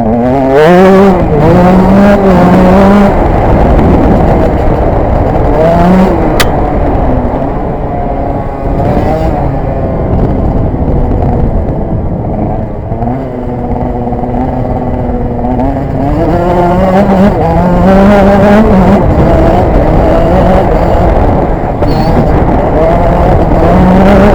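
KTM 125 EXC two-stroke single-cylinder engine revving hard while the bike is ridden. Its pitch climbs, holds high for stretches and drops again, over and over.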